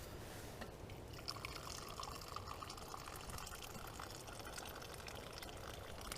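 Tea being poured into a cup, a steady pour starting about a second in and running until near the end, with a few small clicks.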